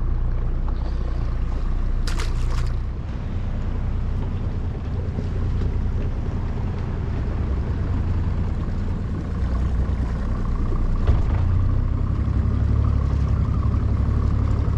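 Small boat's motor running low and steady, with wind buffeting the microphone. A brief high rustle about two seconds in, and a faint whine in the last few seconds.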